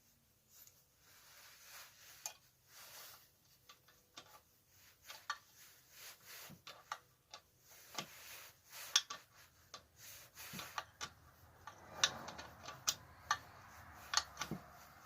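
Irregular metal clicks and clinks of hand tools and bolts being worked on small engine parts, with a brief rustle about twelve seconds in.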